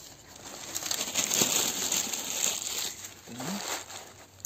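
Newspaper being crumpled by hand into loose balls: a dense papery crackle that builds about half a second in and dies away after about three seconds.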